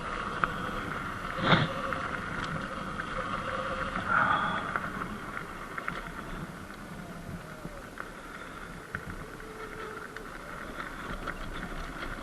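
Sur-Ron Light Bee X electric dirt bike riding over a rocky dirt road: steady running noise of the bike and its tyres on loose gravel, with scattered clicks and rattles and a sharper knock about one and a half seconds in.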